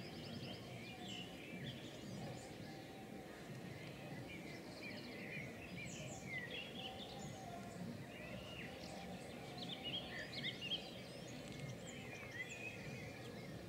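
Birds chirping and twittering throughout, many short calls that sweep quickly up and down, over a steady low background rumble.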